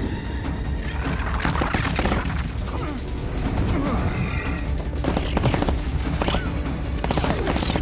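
Movie action soundtrack: rapid bursts of gunfire in clusters, over dramatic score music and a constant low rumble.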